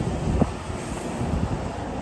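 Aichi Loop Railway electric train pulling out past the platform: a steady low rumble of wheels on rail, with a sharp knock about half a second in.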